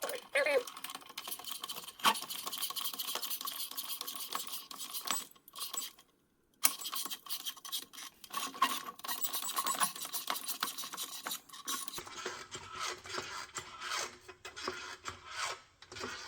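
Irregular scraping and rubbing with many small clicks as a floor jack, topped with a rag-wrapped 2x4, is moved into place and worked up under the engine's oil pan, with a short pause about six seconds in.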